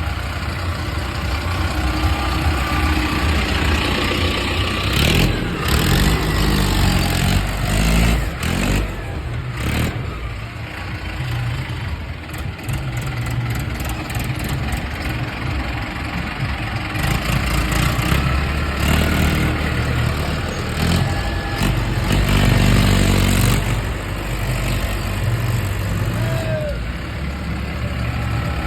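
Diesel tractor engine running at idle, revved up a few times with the pitch rising and falling, under load with a wood-laden trolley, with a few sharp knocks in between.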